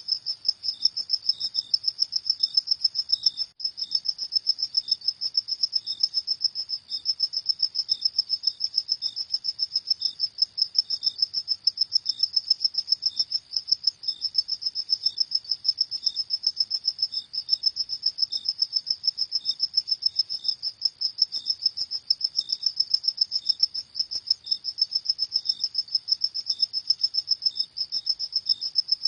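Crickets chirping at night: a steady run of rapid, high-pitched chirps, with a fainter, lower-pitched chirp repeating beneath it, and a brief break about three and a half seconds in.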